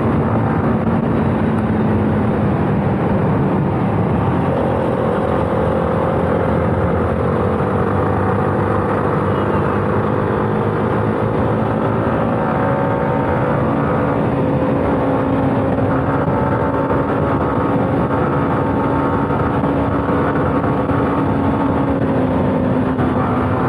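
Yamaha R15's single-cylinder engine running at a steady cruising speed under heavy wind rush. A second engine note comes in a few seconds in and climbs slowly for several seconds while another motorcycle rides alongside.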